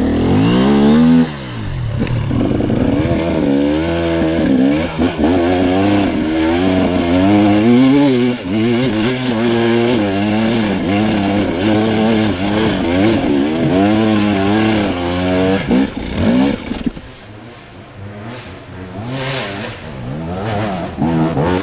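Enduro dirt bike engine revving hard and unevenly, the pitch rising and falling over and over as the throttle is worked for grip on a steep, slippery climb. About seventeen seconds in the engine drops back to a much quieter level, with some clatter.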